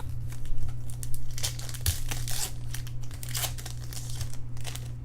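Plastic wrapper of a baseball card pack crinkling and tearing as it is handled and opened, in irregular crackles, over a steady low hum.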